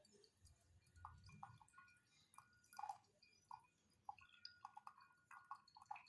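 Faint, scattered small clinks and taps of porcelain gongfu teaware being handled, with a few drips of tea, as a steeped infusion is decanted and served.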